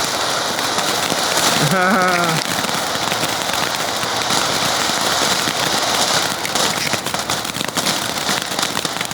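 Ground fountain firework spraying, a steady crackling hiss that runs on without a break. A brief wavering voice is heard about two seconds in.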